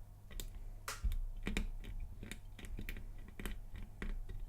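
Lock pick working the pins inside a Lockwood laminated padlock, making small, irregular metallic clicks, several a second.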